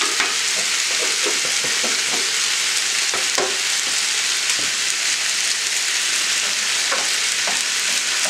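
Diced chicken and vegetables sizzling steadily in butter and oil in a cast iron skillet. Short knocks and scrapes come in the first half, and a wooden spatula stirs the food near the end.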